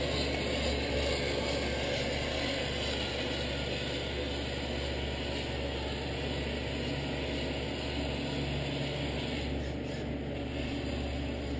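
1/14-scale remote-controlled Scania R620 timber truck model running, a steady mechanical hum with a constant low drone.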